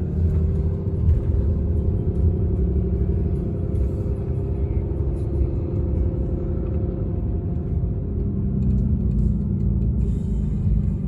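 Steady low rumble of a dual-rear-wheel pickup truck's engine and tyres heard from inside the cab while driving.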